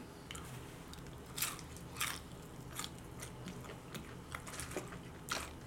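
Crunching and chewing of a thinly breaded, crispy onion ring, heard close up as irregular sharp crackles.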